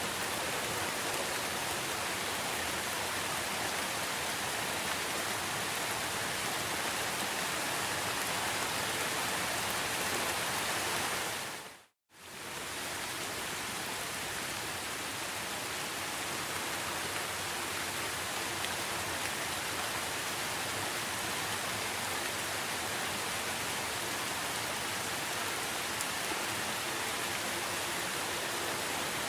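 Steady rain falling, an even, continuous hiss. It fades out to silence and straight back in about twelve seconds in, like the seam of a looped recording.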